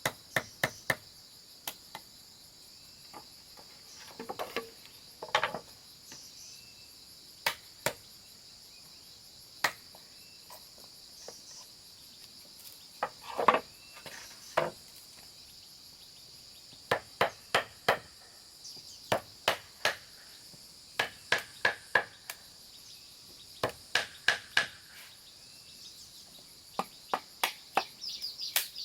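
Hammer blows on wood, in short runs of three or four strikes with pauses between, with a few scraping handling sounds, over a steady chorus of crickets.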